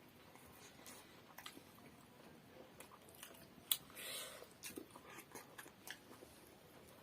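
Faint chewing and mouth sounds of someone eating momos (steamed dumplings), with scattered short clicks and one louder click a little past halfway.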